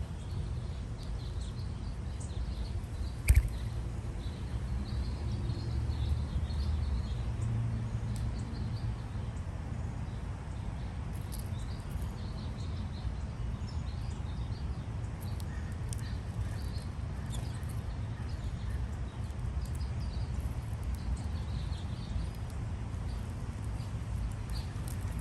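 Outdoor ambience: a steady low rumble with faint, scattered high chirps throughout, and one sharp click about three seconds in.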